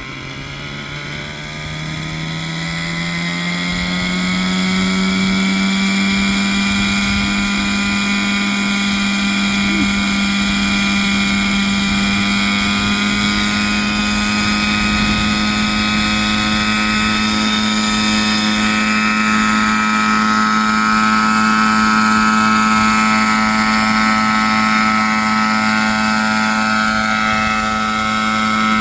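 Nitro (glow-fuel) RC model helicopter engine spooling up. Its pitch and loudness climb over the first four seconds or so, then it holds a steady pitch at running speed.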